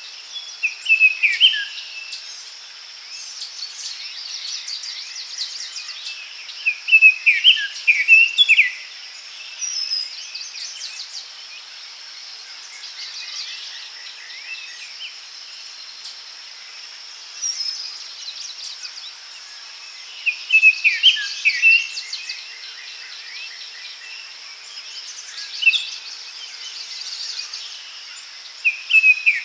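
Daytime forest ambience: songbirds singing short phrases of quick, sweeping notes that come back every few seconds, over a steady high-pitched insect drone.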